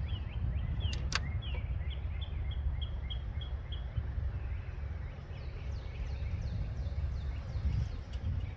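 Outdoor background: a steady low rumble with rows of short, high chirps repeating a few times a second, some falling in pitch.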